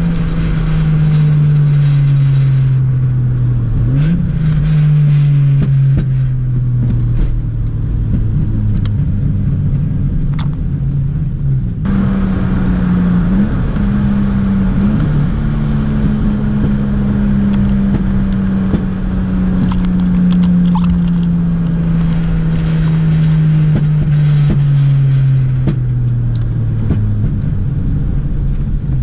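Turbocharged Toyota 1G-FE two-litre inline-six in a Lexus IS200 running loud, its revs falling slowly over long stretches. The revs jump sharply up about four seconds in and again about twelve seconds in.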